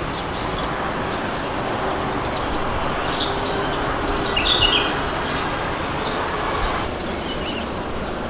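Steady wind blowing, with small birds chirping over it; the most prominent chirping comes about halfway through.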